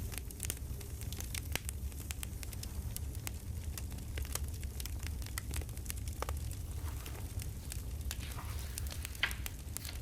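Campfire crackling: frequent irregular sharp snaps and pops over a steady low noise of burning wood.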